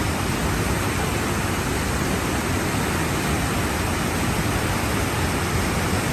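Sol Duc Falls, a waterfall, giving a steady, unbroken rush of falling water.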